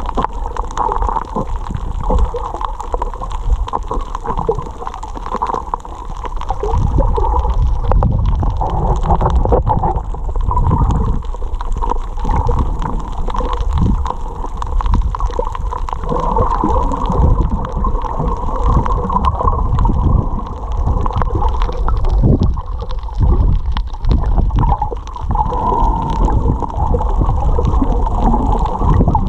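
Water rumbling and gurgling against an action camera's waterproof housing, muffled and continuous as the snorkeler swims, with a steady hum underneath.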